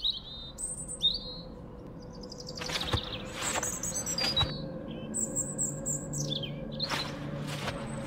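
Small birds chirping and singing, short high calls and quick falling trills, with a few brief rustles in between.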